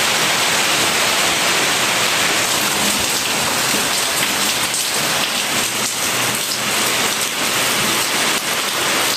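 Steady rain falling on roofs and the ground, with water streaming and dripping off a roof edge.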